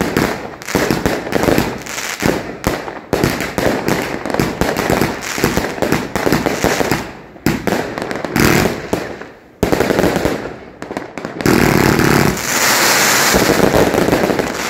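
New Year's fireworks and firecrackers going off in rapid, dense volleys of cracks and bangs, with a brief lull about nine seconds in. Over the last few seconds this becomes a continuous loud crackling hiss.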